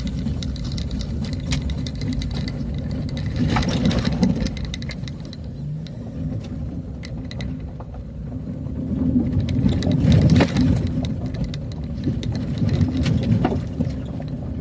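Vehicle driving along a road: a steady low engine and road rumble with scattered knocks and rattles. It grows louder for a couple of seconds past the middle.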